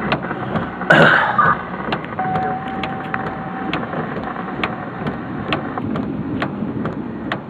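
Steady thunderstorm rain with scattered sharp ticks of drops striking close by, about two a second. A loud brief rush comes about a second in, and a thin steady tone sounds for about a second and a half near the middle.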